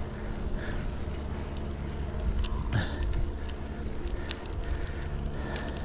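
Riding noise from a ZiZZO Urbano folding bike on a paved path: a steady low rumble of tyres and wind on a GoPro microphone under a foam wind cover, with a few scattered clicks and rattles.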